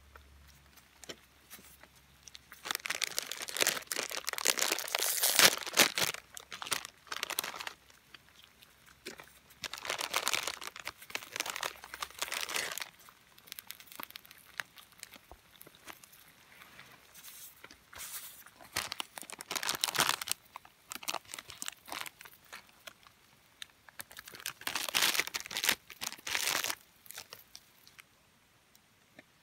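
Crinkling and rustling, like plastic or paper being crumpled and handled, in four separate bouts with short quiet gaps between.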